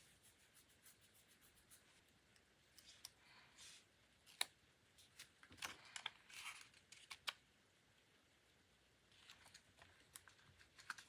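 Faint paper-crafting handling sounds: scattered small clicks and short rustling swishes of paper and stationery being worked by hand, with one sharper click about four seconds in and a quiet stretch before more soft rustles near the end.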